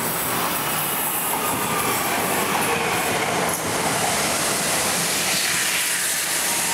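Electric commuter train running into the station along the platform: a steady rush of wheels on the rails and running gear, with a faint high squeal from the wheels.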